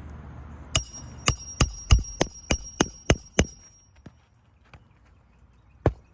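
Hammer driving roofing nails through an asphalt shingle: about nine sharp blows at roughly three a second, with a metallic ring on the first ones, then two more blows near the end.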